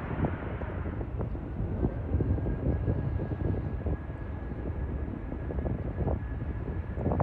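Jet airliner engine noise with wind buffeting the microphone; a thin steady whine comes in about two seconds in and holds.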